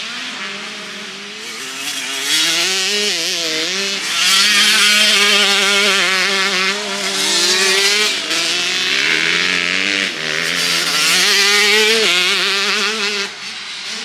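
Motocross bikes racing on the track, their engines revving hard, with the pitch rising and falling as the riders accelerate and shift. The sound swells loud several times as bikes pass.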